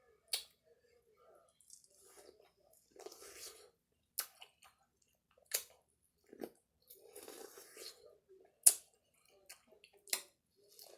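Close-up chewing and wet mouth sounds of someone eating a meal, with several sharp clicks spread through and softer stretches of chewing in between.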